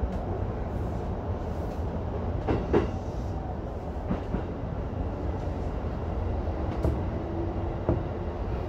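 Keihin-Tohoku Line E233-1000 series electric commuter train running, heard from inside the front car: a steady low rumble with a few short knocks from the wheels over rail joints.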